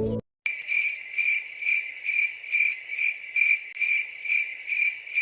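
Cricket chirping: a high, steady trill pulsing evenly about twice a second, starting about half a second in after a brief silence.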